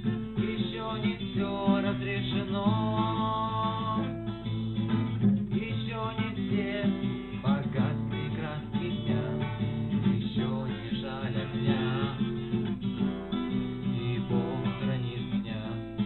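Acoustic guitar strummed, playing the chords of a song.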